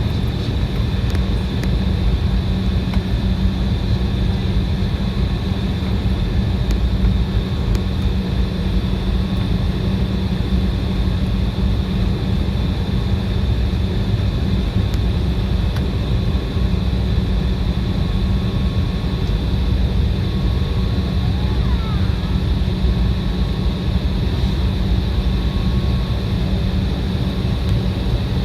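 Cabin noise of an Embraer 175 taxiing: the steady hum of its GE CF34-8E turbofans at taxi power, with a thin high whine, over a low rumble.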